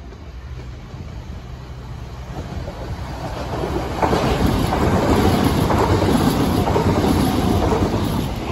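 Southern Class 377 Electrostar electric multiple unit running in along the platform. It grows louder from about three seconds in, then gives a steady rush of wheels on rail as the carriages go by.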